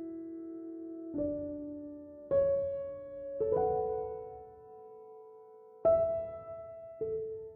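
Slow, gentle solo piano music. Soft chords are struck about every second or so and left to ring and fade away.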